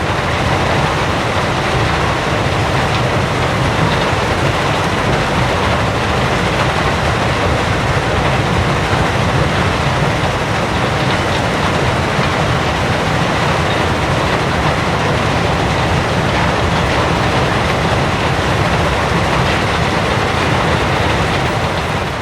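Loud, steady rumbling noise with a faint high whine, like a large vehicle running continuously.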